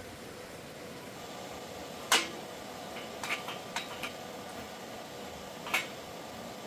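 Metal being handled in a workshop: a sharp clank about two seconds in and another near the end, with a few lighter clinks between, over a steady low hiss.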